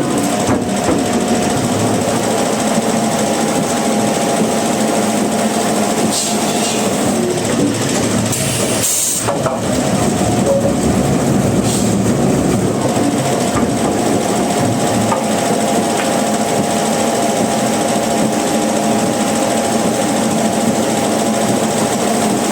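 Sawmill saw running and cutting timber, a loud, steady mechanical din with a thin whine that drops out for a few seconds around the middle and then returns.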